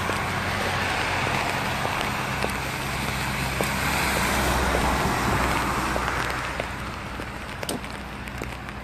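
Traffic on a rain-wet street: a passing vehicle's engine and tyre hiss swell to a peak about four to five seconds in, then fade, with scattered ticks of raindrops.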